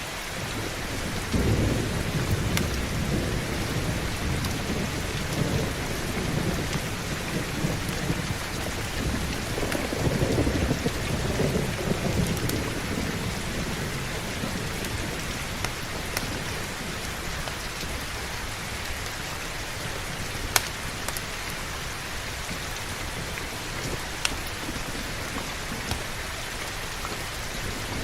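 Heavy rain falling steadily, with a low rumble of thunder through the first half that fades away about halfway through. A few sharp isolated pops stand out over the rain, one louder than the rest about two-thirds of the way in.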